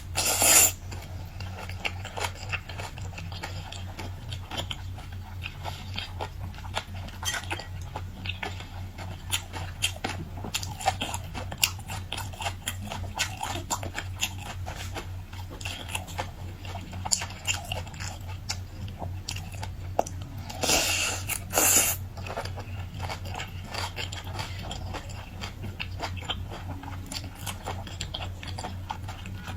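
Close-miked eating sounds: biting, chewing and crunching on seafood, with many small wet clicks. There are two louder bursts of crunching, one just after the start and one about 21 seconds in, over a steady low hum.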